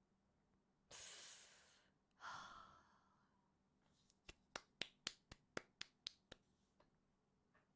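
A person breathes out twice, the second a longer sigh, then comes a quick run of about ten sharp clicks.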